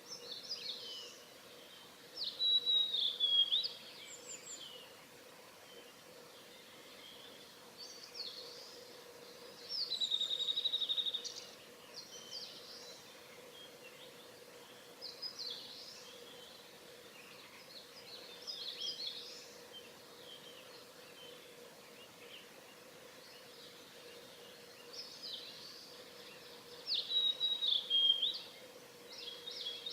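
Male blue-and-white flycatcher singing: short phrases of clear whistles and warbles repeated every few seconds, the loudest about three, ten and twenty-seven seconds in. A faint steady low hum runs underneath.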